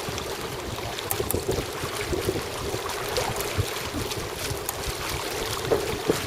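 Wind buffeting the microphone aboard a small sailing boat, a steady gusty rumble with scattered small clicks and knocks.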